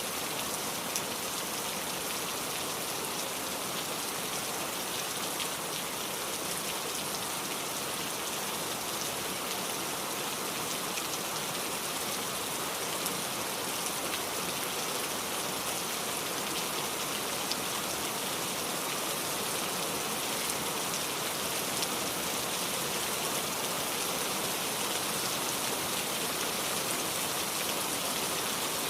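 Steady rain falling, with fine drop ticks over an even hiss.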